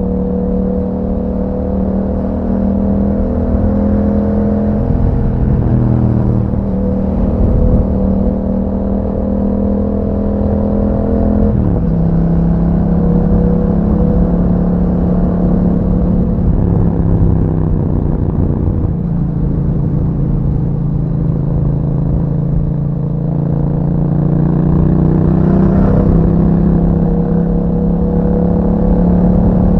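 Yamaha MT-07's parallel-twin engine through an Akrapovic exhaust, heard while riding: the note climbs steadily under throttle and drops sharply at several gear changes, the clearest about twelve seconds in.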